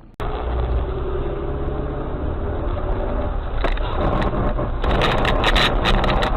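Car engine and road noise heard from inside a moving car, starting abruptly. About halfway through, a run of sharp irregular clicks and knocks begins and grows denser toward the end.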